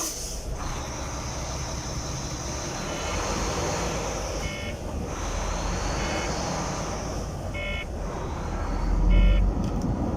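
Semi truck's engine running and pulling away, with a short electronic warning beep repeating about every second and a half. A steady high whine sounds over the first several seconds, and the engine swells a little near the end.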